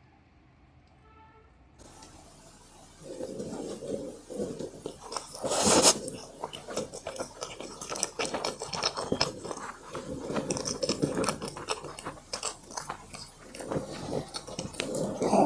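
A person chewing and crunching food close to the microphone, starting about three seconds in, with irregular wet clicks and crackles and one louder crunch just before the six-second mark.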